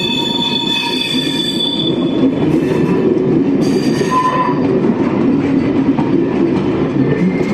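Coaches of a passing train rolling by on the rails, a loud steady rumble of wheels on track. High-pitched wheel squeal rings over it for the first two seconds, then fades.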